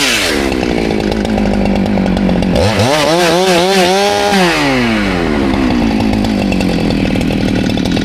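Chainsaw engine running at high revs throughout. Its pitch drops near the start and holds, climbs and wavers between about three and four seconds in, then falls back to a steady note.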